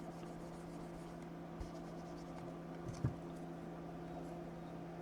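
Quiet steady background hum with two faint clicks, one about one and a half seconds in and a slightly louder one about three seconds in.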